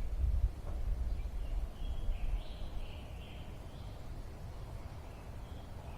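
Faint bird chirps in the background over a low rumble that is heaviest in the first couple of seconds and then settles.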